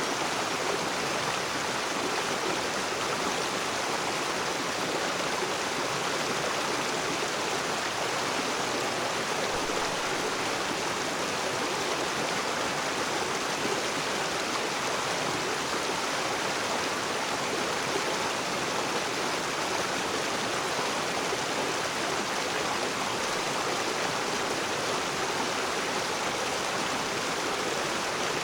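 Rocky river flowing, its water rushing and splashing over rocks in a steady, even rush.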